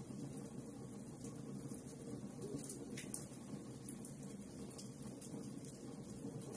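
Wood fire burning in a fireplace, crackling with small sharp pops over a low steady rumble, one pop a little louder about three seconds in.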